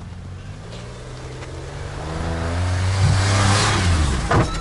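An SUV's engine revving hard as it drives over rough off-road ground, its note rising in pitch and growing louder, with a sudden sharp thump near the end.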